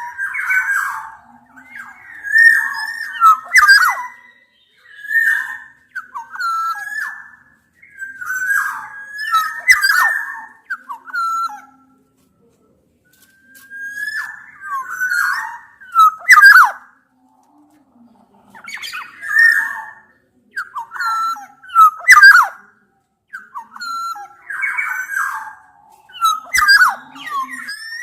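Black-naped orioles (kepodang) calling: short, repeated phrases of fluty whistled notes mixed with harsher, rasping ones, broken by brief pauses and two longer silences about twelve and eighteen seconds in.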